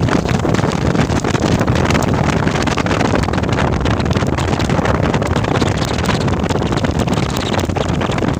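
Loaded truck on the move: steady engine and road noise mixed with heavy wind buffeting on the microphone.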